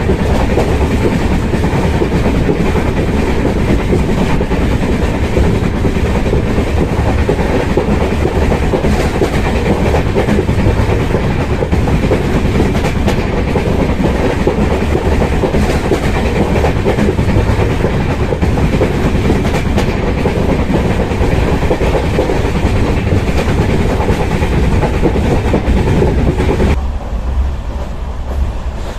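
Passenger train running along the line, heard from on board: a steady rumble with the clatter of the coach wheels over the rails. Near the end the noise turns quieter and duller.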